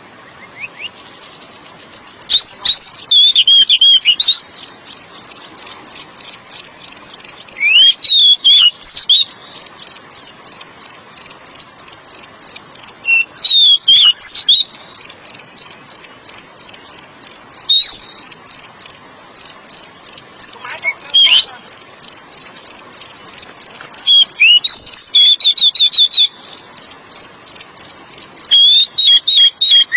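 Oriental magpie-robin (kacer) singing in short bursts of varied whistled, sliding phrases, over a steady, rapid, high-pitched cricket-like chirping at about five pulses a second that starts about two seconds in.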